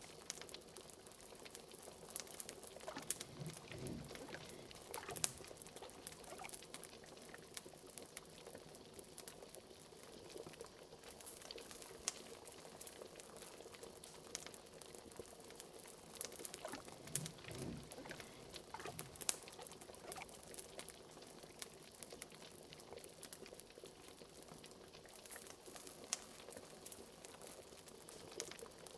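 Liquid bubbling and boiling in a cauldron, with fire crackling in many small sharp ticks. A couple of larger, deeper bubbles gurgle about four seconds in and again about seventeen seconds in.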